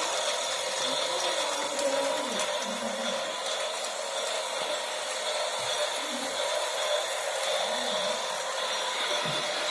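Toy steam train running around its track, its small motor whirring steadily.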